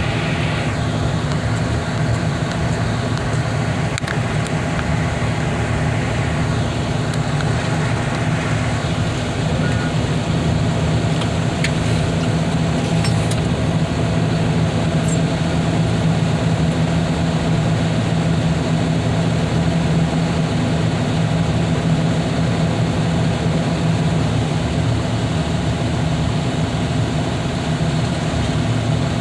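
A large engine running steadily at an even speed, a constant low hum with no break or change in pitch.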